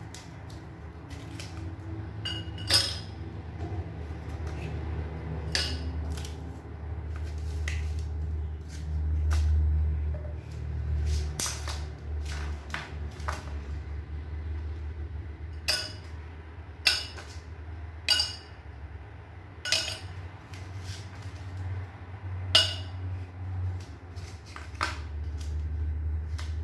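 Ice cubes dropped one at a time into a drinking glass, each landing with a sharp clink, at irregular intervals of a second or two.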